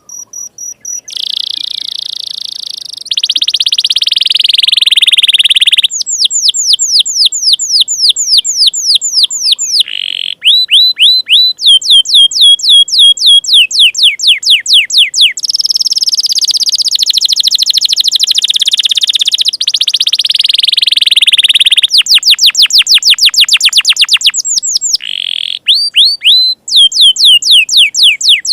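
Domestic canary singing a long, loud song. Runs of fast repeated falling whistles, about ten a second, alternate with sustained buzzy rolls.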